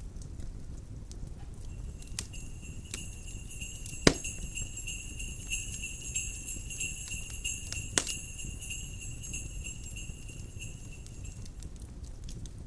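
Jingle bells jingling steadily for about ten seconds over a crackling wood fire, with two sharp pops from the fire, the louder one about four seconds in.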